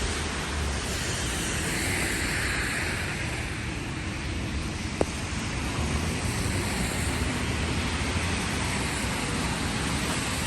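Steady hiss of heavy rain, with the tyre swish of a car passing on the wet road in the first few seconds and a single sharp tick about five seconds in.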